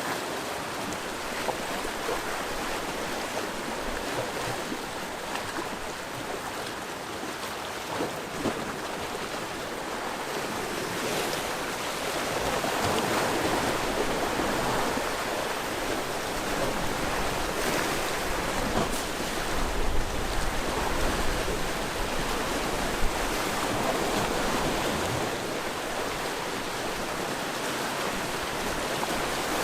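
Sea waves washing onto the shore in a continuous rushing wash. It swells louder about halfway through and again a little past two-thirds of the way, with a deeper rumble at that second swell.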